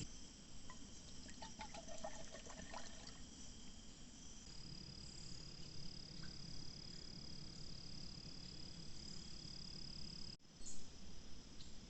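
Outdoor night-time-style ambience of frogs and insects. Several seconds of short, clicky frog calls come first, then a steady high insect trill starts about four seconds in and cuts off abruptly near the end.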